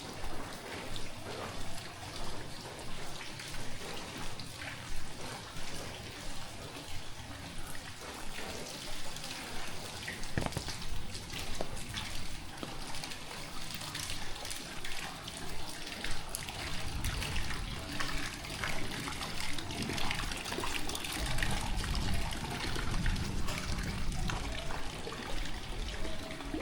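Heavy tropical rain falling, with water trickling and splashing close by and an even rhythm of steps through the wet. A low rumble rises in the second half.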